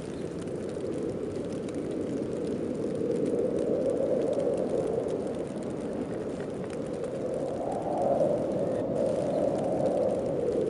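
Snowstorm wind blowing, a steady rushing that swells in two gusts, the first a few seconds in and the second near the end.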